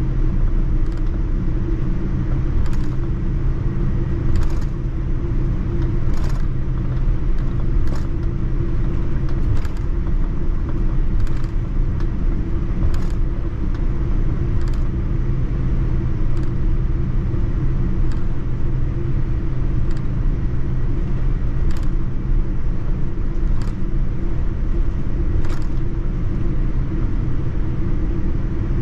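Inside the cabin of a Boeing 787-9 taxiing: a steady engine and cabin rumble with a light knock about every second and three-quarters, typical of the wheels rolling over joints in the taxiway.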